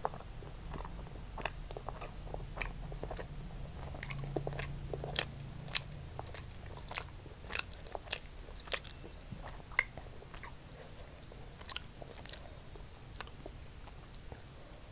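Close-up chewing of a mouthful of fried rice, with many sharp, wet mouth clicks and smacks coming irregularly, one or two a second.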